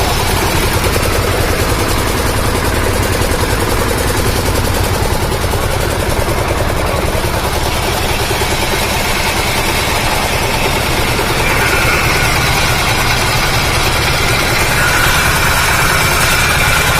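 Engine of a Jakro 200 hydraulic machine running steadily, with a higher steady whine joining in about two-thirds of the way through.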